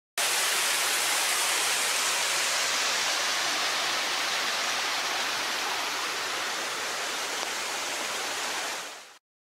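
Steady rush of running water, an even hiss with no distinct tones, which starts abruptly and fades out quickly near the end.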